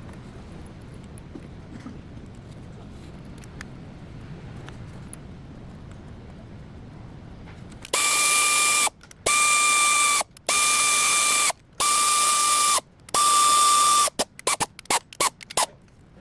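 Powered ratchet wrench driving fasteners during water pump work, starting about halfway through: five steady whirring runs of about a second each, then several quick short pulses on the trigger.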